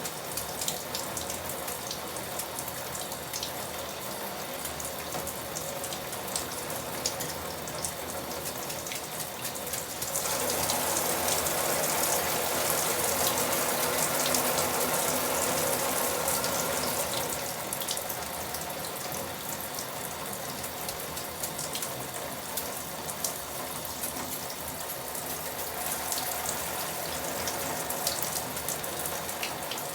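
Tap water running and splashing, with scattered sharp drip ticks; the flow grows heavier for about seven seconds in the middle.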